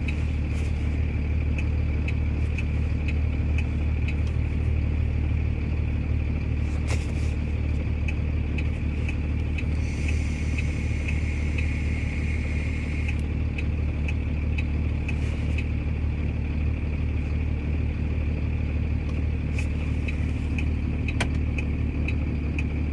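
Tow truck's engine running steadily, heard from inside the cab as a constant low hum.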